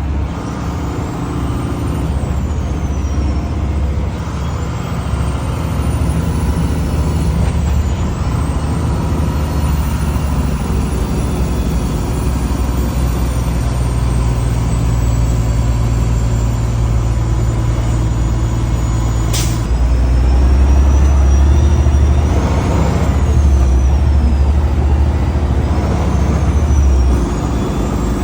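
Heavy tow truck's diesel engine running steadily under the load of a towed, loaded dump truck, with a thin high whistle rising and falling over it. About two-thirds through there is a sharp click, and the engine drone then grows louder.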